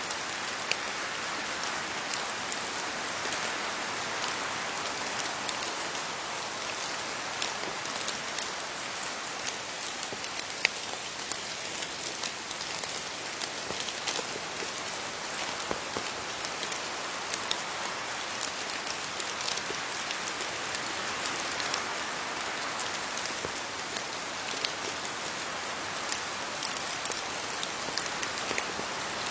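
Steady rain falling on leaves: an even hiss with many distinct drops ticking sharply on top.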